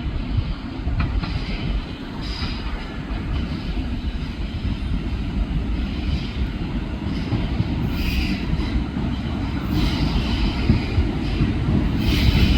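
Train rumbling through the station along the rails, growing steadily louder toward the end, with patches of higher-pitched wheel noise.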